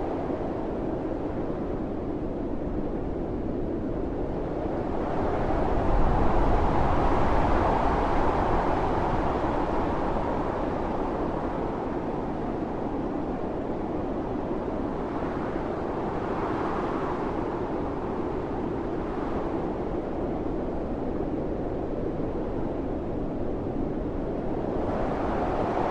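Howling winter storm wind with blowing snow, a continuous rush that swells into a stronger gust about five seconds in, eases off, and builds again near the end.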